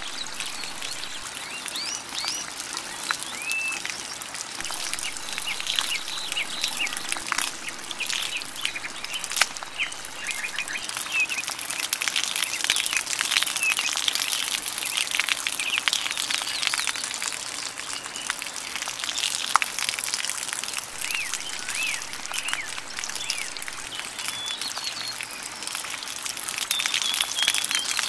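Small birds chirping and calling, many short calls over a steady high hiss.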